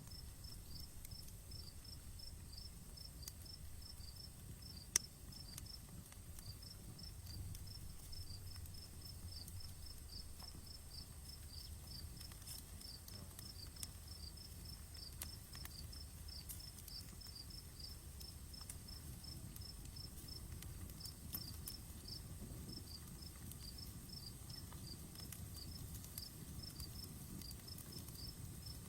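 Outdoor campfire crackling softly, with scattered small pops and one sharp pop about five seconds in. Over a low steady rumble, insects keep up a rapid, regular high chirping throughout.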